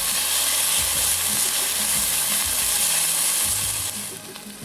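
Sliced red onions and olives sizzling in hot olive oil in a frying pan while being stirred with a spatula. The sizzle is loud and steady, then drops off sharply about four seconds in.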